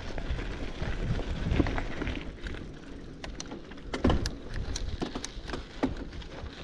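Wind rumbling on the microphone. In the second half it is joined by a string of sharp, irregular clicks and knocks.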